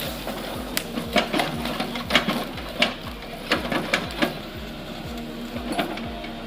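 Steady rhythmic mechanical knocking, about three beats a second, with scattered sharp clicks and cracks over it.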